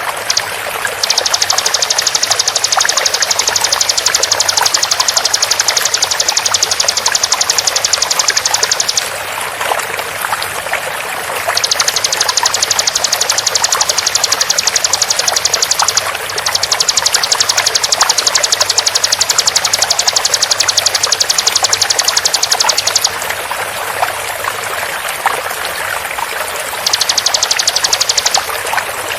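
Bar-winged prinia (ciblek) giving its 'tembakan' call: long trains of very fast, high, repeated notes lasting several seconds each, with short breaks between bouts. Under it runs a steady sound of flowing water.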